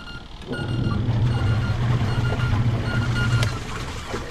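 Washing machine running its rinse cycle with a steady low motor hum, which stops about three and a half seconds in, and the machine giving short high beeps, a pair of them near the end of the hum.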